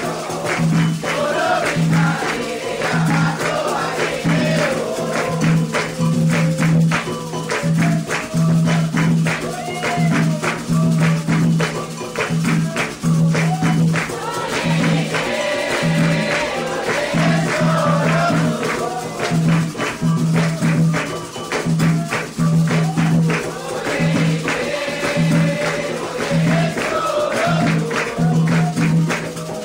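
Candomblé ritual music: a rhythmic pattern of atabaque hand drums and other percussion under a group singing a chant together.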